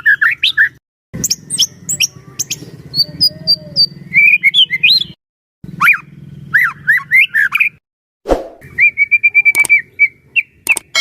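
White-rumped shama (murai batu) singing a rich, varied song of quick gliding whistles, trills and sharp chirps, broken by three brief silences.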